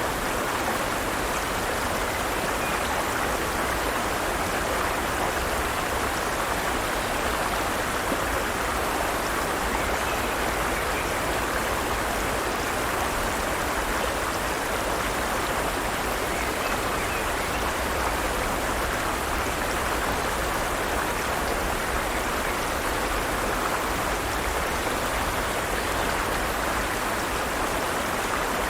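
Forest stream flowing steadily, water rushing and splashing in an even hiss.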